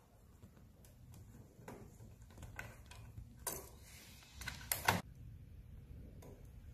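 A few light clicks and handling noises, the loudest a quick pair of clicks about five seconds in.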